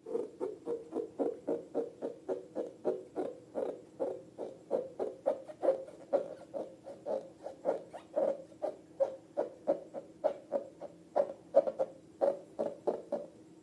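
Slime being squeezed and worked by hand, giving a steady run of wet squelches, about three a second.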